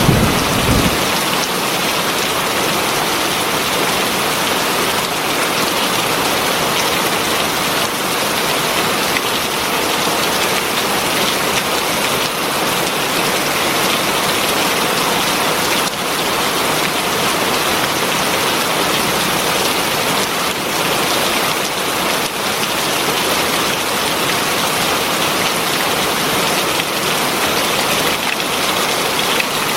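Heavy rain falling steadily and densely on surfaces, an even hiss of countless drops. A low thunder rumble dies away in the first second.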